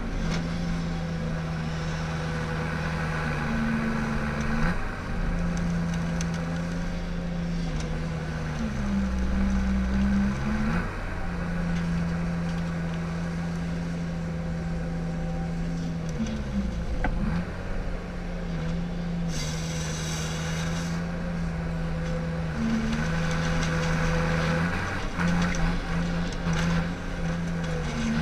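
Ponsse Ergo harvester's diesel engine running, its pitch stepping up and down several times as the revs change under working load. A few short knocks and a brief hiss sound over it.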